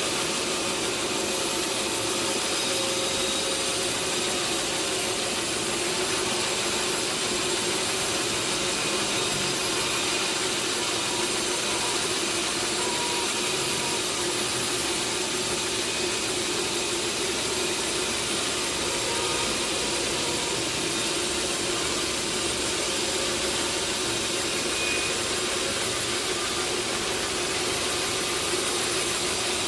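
Sawmill saw and its motor running steadily, a constant machine noise with an even hum and no breaks.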